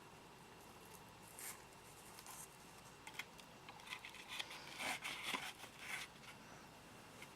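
Quiet crinkling and rustling from hands working with potted succulents. Small clicks and crackles bunch together between about three and six seconds in.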